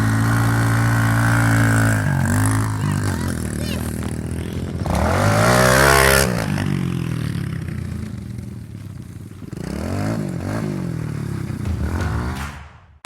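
Dirt bike engine running steadily, then revved up and down several times, loudest about five to six seconds in.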